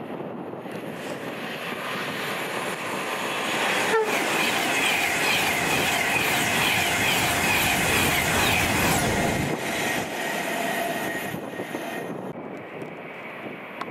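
A train passing on the line: the rush of wheels on rail grows, with a sharp click about four seconds in, stays loud for about five seconds with a steady high whine over it, then fades away.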